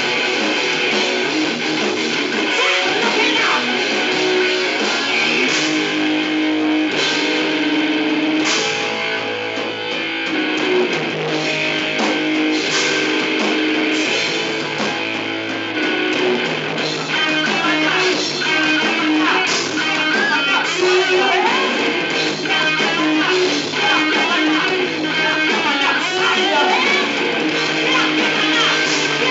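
A band playing rock music live, led by guitar, with a steady rhythm of hits throughout.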